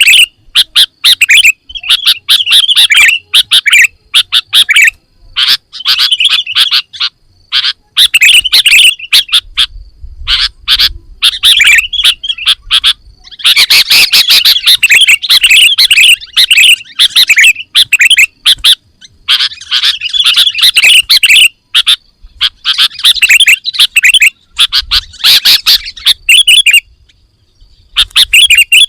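Sooty-headed bulbul (kutilang) singing loudly in rapid bursts of chattering chirps and warbles, phrase after phrase with short pauses between them.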